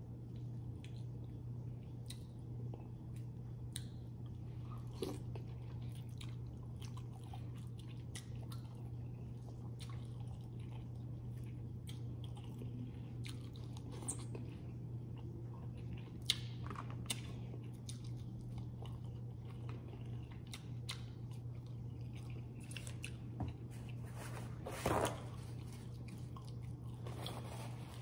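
Close-miked chewing and biting of rotisserie chicken and vegetables: wet mouth clicks and smacks with occasional crunches, one louder crunch near the end. A steady low hum runs underneath.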